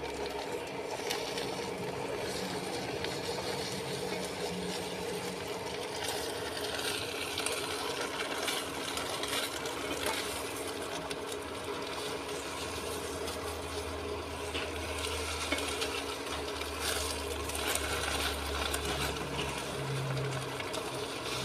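Battered vegetables frying in a pan with only a little oil: a soft, steady sizzle with scattered small crackles over a low steady hum.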